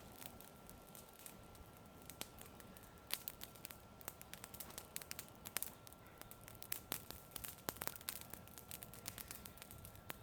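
Wood fire crackling, with irregular sharp pops and snaps, and a faint steady high tone underneath.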